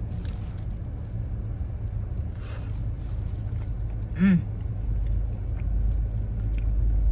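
Chewing on a bite of fried tofu, with a short 'mm' hum about four seconds in, over a steady low car rumble that grows louder in the second half.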